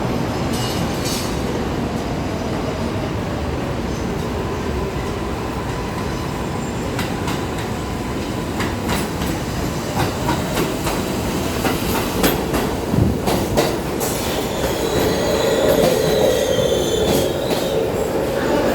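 New York City subway train rolling along, with a steady rumble and the wheels clicking over rail joints in the middle. Metal wheel squeal starts up near the end.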